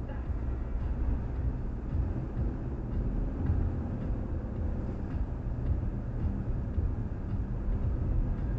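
Steady low rumble of a car driving, heard from inside the cabin: tyre and road noise with the engine running underneath.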